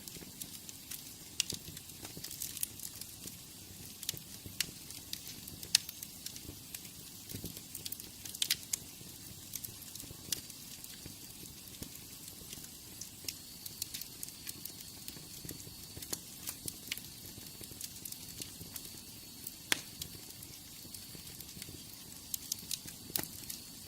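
Wood fire in a fireplace crackling: irregular sharp pops and snaps over a steady soft hiss, with a louder pop about six seconds in and another near twenty seconds.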